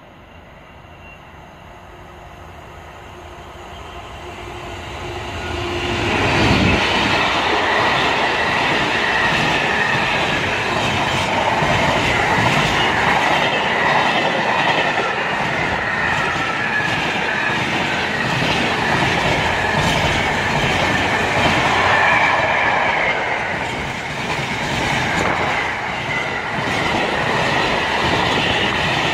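A Class 66 diesel-electric freight locomotive approaches, growing steadily louder over the first six seconds, and passes. Behind it a long train of empty container flat wagons rumbles past on the track, with a steady high whine over the wheel noise.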